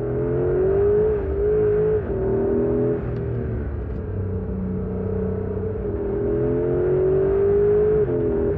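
2025 Porsche 911 Carrera GTS's flat-six engine pulling under acceleration. Its pitch climbs steadily, then drops sharply with an upshift about two seconds in and again near the end.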